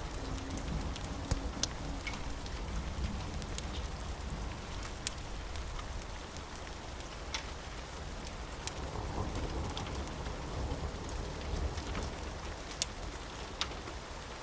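Steady rain falling on a surface, with a low rumble underneath and scattered sharp ticks throughout.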